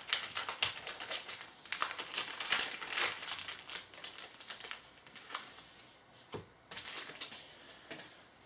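Plastic wrapper of a trading card pack crinkling as it is opened and handled. The crackling is heaviest in the first half and comes in a few short bursts later.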